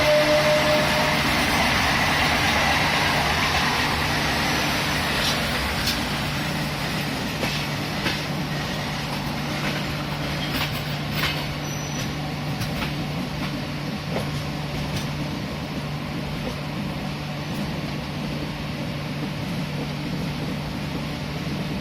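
Train running on rails: a steady hum over a rumble that slowly fades, with scattered clicks between about five and fifteen seconds in. A horn sounds at the start and cuts off about a second in.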